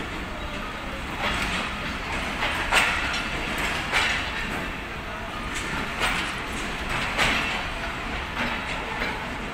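Passenger train coaches rolling along with a steady rumble, their wheels clacking over rail joints about once a second.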